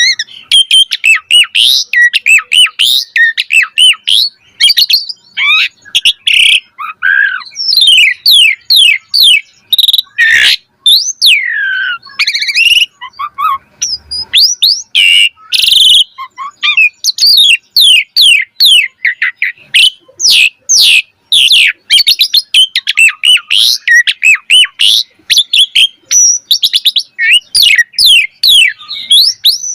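Asian pied starling singing a fast, varied song: a dense run of quick chirps, rising and falling whistles and a few harsh, rasping notes.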